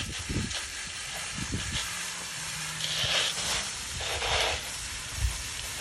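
Garden hose spray hissing as it blasts into a root ball to wash out the potting soil, with two louder surges about three and four seconds in.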